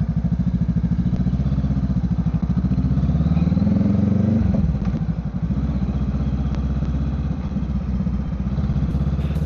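Honda Rebel 500's parallel-twin engine running while riding. Its note rises for a couple of seconds, falls abruptly about five seconds in, then runs steadily.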